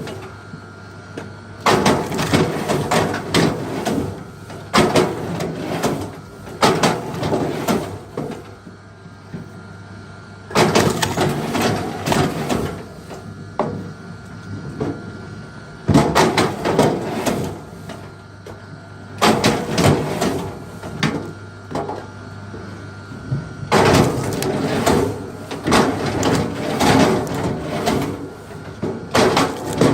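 Wood being worked by hand: irregular clusters of knocks and cracking, each group lasting a second or two, with quieter gaps between.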